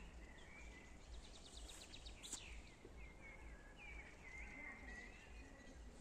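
Faint garden birds chirping and calling over a quiet outdoor hush. There is a quick rattling trill about a second in, then a sharper falling call just after, the loudest sound here.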